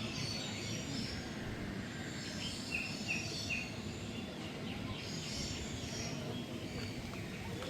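Several birds calling and chirping over a steady background hum, with three quick sharp chirps about three seconds in.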